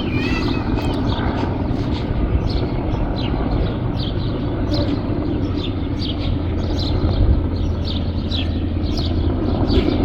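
A helicopter's steady low drone, with small birds chirping throughout in short, high chirps about once or twice a second.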